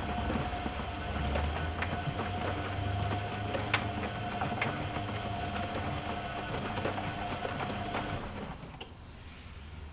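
Privileg 370 S washing machine's motor turning the drum, a steady whine with scattered clicks and rattles, stopping about eight and a half seconds in.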